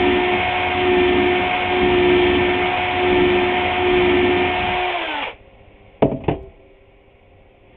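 Electric drill running steadily as it bores a hole in a wood board, then winding down and stopping about five seconds in. Two sharp knocks follow soon after.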